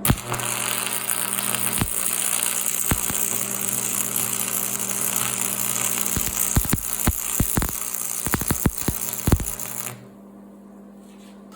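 Stick welding arc: a steady crackling hiss with sharper pops in its latter part, cutting off about ten seconds in.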